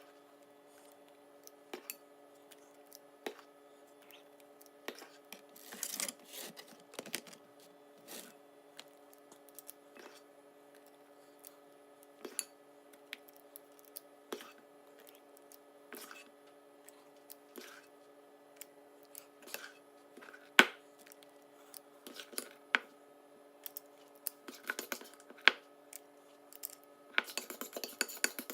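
Metal ice cream scoop clicking and scraping as thick cake batter is scooped from a bowl and dropped into silicone cake pans: scattered sharp clicks and short scrapes, busier near the end, over a faint steady hum.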